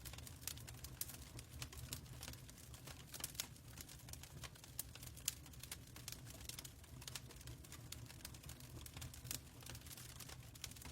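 Faint fireplace crackle: irregular sharp pops and clicks over a steady low rumble.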